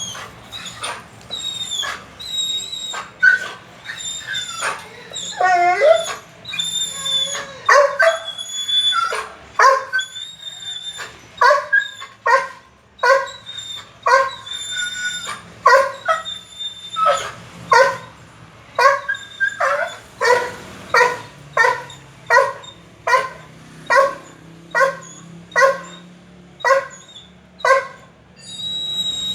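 A male dog repeatedly yelping and whining, short high-pitched cries about one a second with one longer wavering cry early on. It is a dog worked up at the sight of a female dog.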